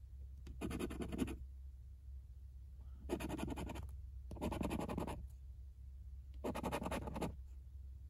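Scratch-off lottery ticket being scratched off in four short bursts of rapid scraping, each under a second long. A steady low hum runs underneath.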